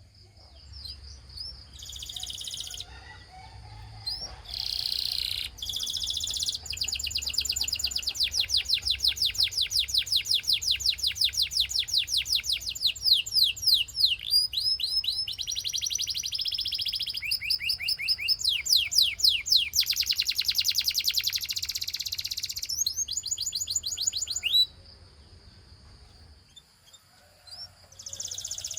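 A domestic canary singing a long song of fast repeated trills, one phrase running into the next at several notes a second, with the song falling away near the end. A faint low hum sits underneath.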